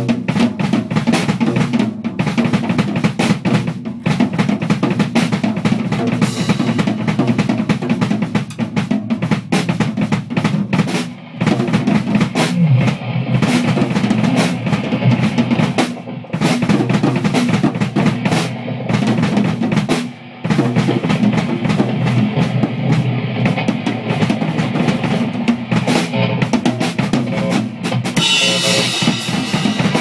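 Live drum kit played hard in a rock jam, with kick, snare and rimshots hitting throughout. It breaks off briefly three times.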